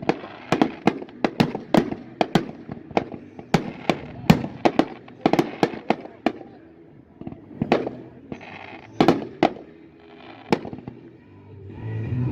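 Fireworks going off in an irregular string of sharp bangs and cracks, several a second for about six seconds, then thinning to a few scattered reports before the bangs pick up again at the end.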